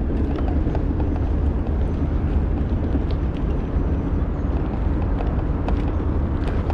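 Steady low rumble of a bicycle in motion on the camera's microphone, with scattered light clicks and rattles.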